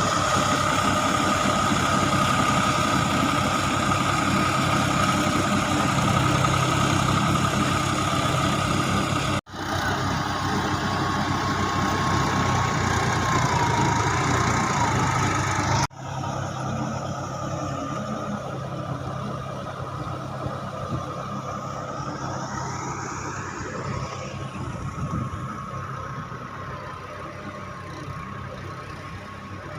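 Diesel tractor engine running while working a rotavator, with a steady high whine over it in the first third. The sound cuts abruptly twice, about a third and about halfway through, and is quieter after the second cut.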